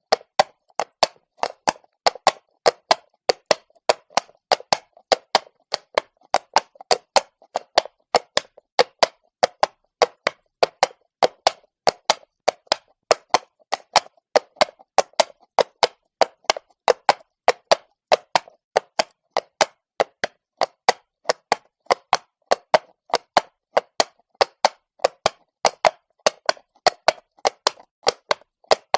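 Horse's shod hooves walking on cobblestones: an even run of sharp knocks, about two to three a second.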